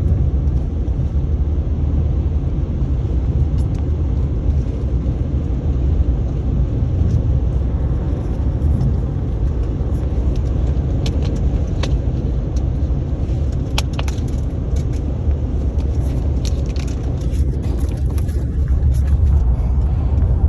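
Steady low rumble of a car driving, heard from inside the cabin, with a few scattered clicks and knocks about halfway through.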